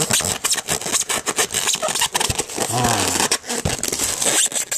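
Cardboard box and tissue-paper packaging scraping and rustling as a die-cast toy truck is pulled out: a rapid, continuous run of rubs and crinkles.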